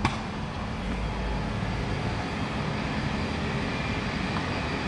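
Steady rumble of jet airliner engines, with a short click at the very start.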